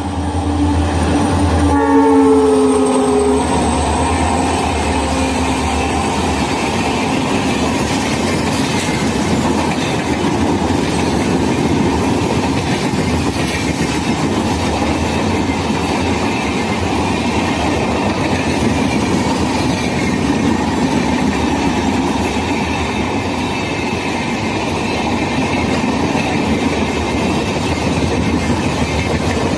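Indian Railways train passing at speed. Its horn sounds and drops in pitch about two to three seconds in as the train goes by, then the steady noise of its wheels running on the rails carries on.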